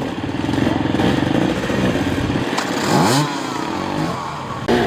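Off-road enduro motorcycle engine running, with a sharp rev that rises and falls in pitch about three seconds in.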